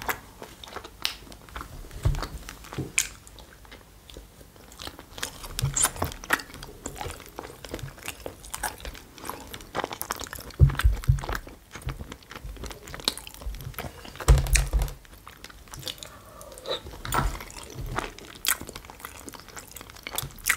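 Close-up mukbang eating sounds: a person chewing and biting food, with many wet mouth clicks and occasional crunches. A few low thumps come about halfway through and again a few seconds later.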